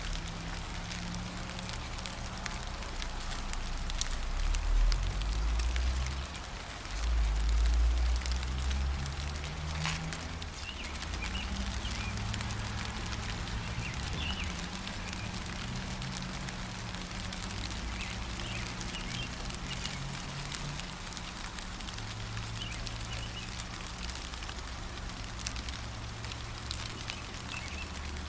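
Gentle rain falling steadily, with scattered sharp drip ticks and a few faint bird chirps. A low rumble swells twice in the first ten seconds, the loudest part.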